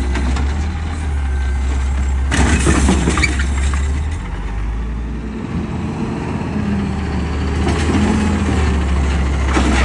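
Peterbilt 520 garbage truck's diesel engine running with a steady low drone that drops in pitch and level about four to five seconds in. A brief burst of metallic clattering comes about two and a half seconds in.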